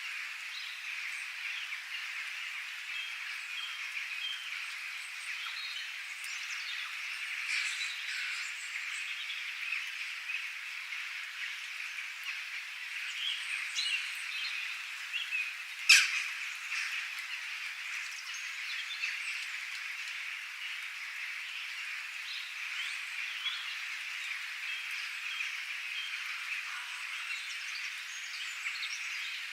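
Wild birds chirping and calling over a steady high-pitched chorus, with one sharp click about halfway through, the loudest moment.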